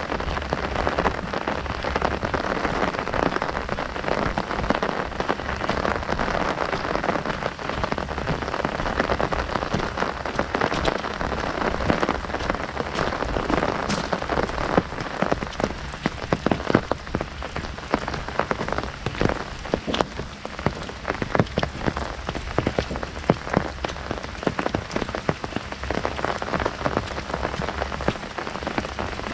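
Heavy rain drumming on an umbrella overhead: a dense, steady patter with sharp individual drop strikes, heavier single drops standing out more in the second half.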